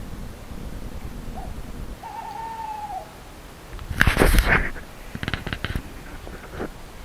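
An owl calling at night: a short low note, then one hoot about a second long that drops in pitch at the end. About two seconds later comes a loud, brief rustling crash, followed by scattered softer rustles and clicks.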